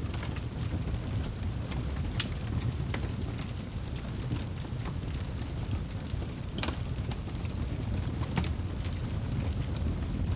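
Wood fire burning in a fireplace: a steady low rumble of the flames with scattered sharp crackles and pops from the burning logs, a few louder snaps standing out.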